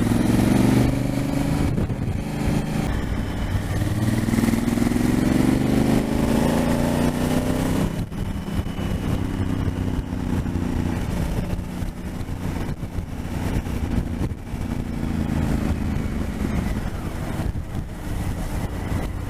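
Twin-cylinder adventure motorcycle engine heard from the bike while riding, its pitch climbing steadily under acceleration for several seconds before a sudden drop at a gear change about eight seconds in, then climbing again later. Wind and road noise run underneath.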